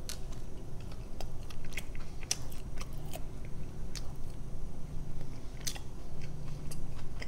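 A person chewing a mouthful of pizza: irregular crunches and mouth clicks at no steady rhythm.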